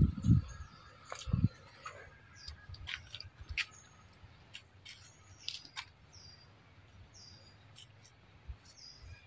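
Small birds chirping: short high notes that fall slightly in pitch, repeated every second or so, with scattered sharp clicks between them. A few loud low thumps come in the first second and a half.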